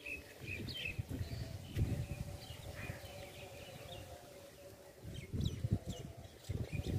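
Small birds chirping in short, scattered calls over a rural background, with low rumbling bursts about two seconds in and again near the end.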